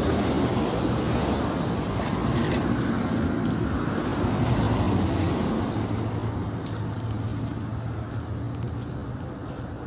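Motor vehicle running on a road: a steady engine hum mixed with road noise, easing off a little in the second half.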